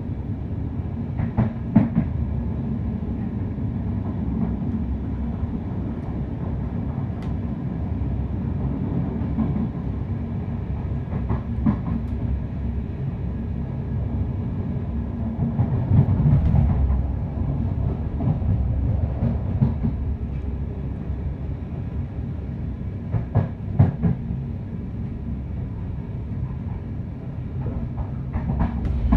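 Passenger train running along the track: a steady low rumble, with occasional sharp clicks and knocks of the wheels over rail joints a few seconds apart.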